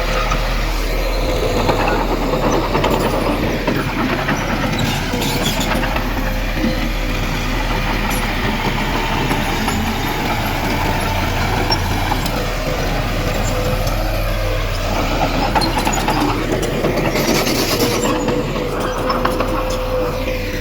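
Heavy diesel earthmoving machinery running steadily under work, with a steady whine over the engine and a brief hiss near the end.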